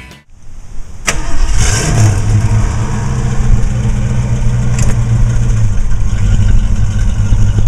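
1970 Ford Mustang's 302 V8 starting: a sharp click about a second in, then the engine catches with a short rise in revs and settles into a steady idle.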